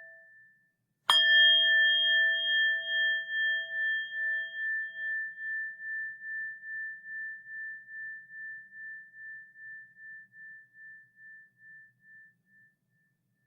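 Buddhist rin bell struck once about a second in, ringing with a few clear tones. The ring dies away slowly with a wavering pulse about twice a second and fades out near the end. The last of the previous ring dies away just before the strike.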